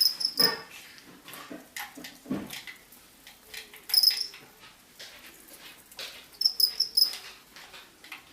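Short high-pitched animal squeaks in quick clusters of three or four, a few seconds apart.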